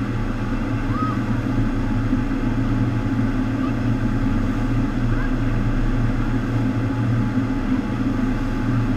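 FlowRider surf machine's pumps driving a sheet of rushing water over the ride surface: a loud, steady rush with a constant low hum. A couple of brief faint high chirps sound over it, about a second in and about five seconds in.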